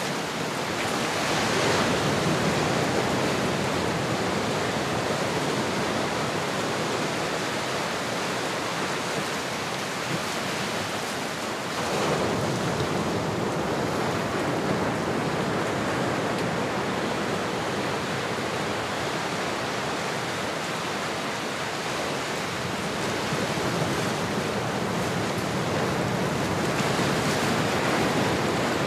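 Ocean surf: a steady rush of waves, swelling as waves break about three times.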